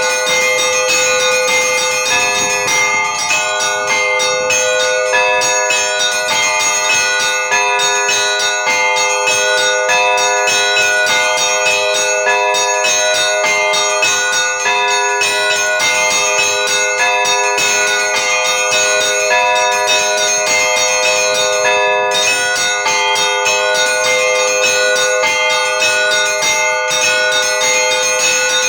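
Russian Orthodox church bells rung by hand in a continuous Easter peal: several bells struck in quick succession, their tones ringing on and overlapping without a pause.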